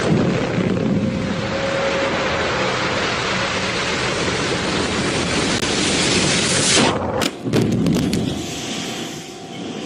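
Explosion blast: a loud, long rushing roar that cuts off suddenly about seven seconds in, followed by a shorter, lower rumble that fades away.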